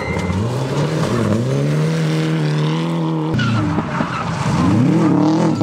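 Rally car engines at high revs, the pitch dipping and climbing with gear changes and then held, with tyres scrabbling on gravel. A little over three seconds in the sound cuts abruptly to another car revving up and down through a corner.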